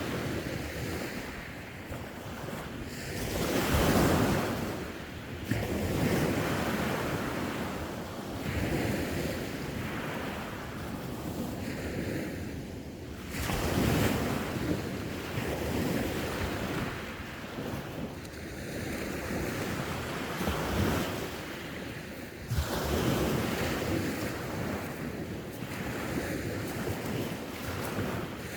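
Sea waves washing onto the shore in repeated swells every few seconds, with wind buffeting the microphone.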